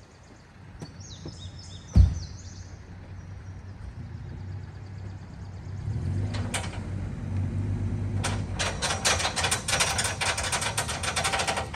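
A log being pulled up onto a truckload of logs. A sharp thump comes about two seconds in, then an engine runs, and from about eight seconds in a fast, even clicking rattle carries on.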